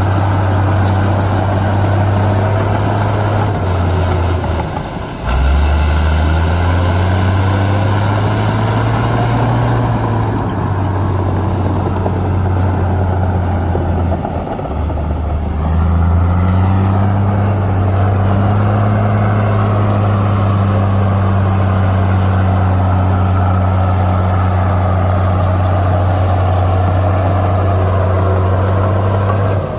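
Heavy diesel engine of earthmoving machinery working, its low note rising and falling with load. Twice the sound breaks off briefly and returns at a different pitch.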